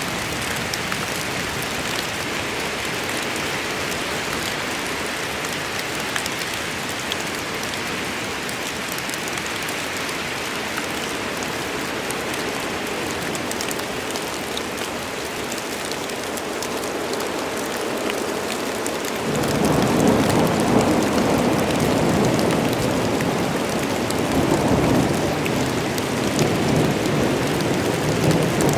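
Rain falling steadily in a storm. About two-thirds of the way in, a rumble of thunder comes in suddenly and rolls on, swelling a few more times.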